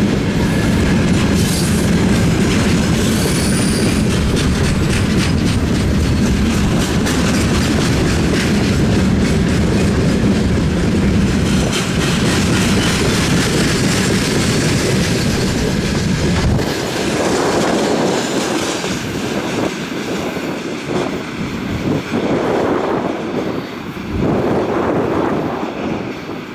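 Freight wagons rolling past at speed, wheels knocking over the rail joints in a steady clickety-clack with a heavy low rumble. The rumble cuts off about two-thirds of the way through as the train clears, leaving gusty wind on the microphone.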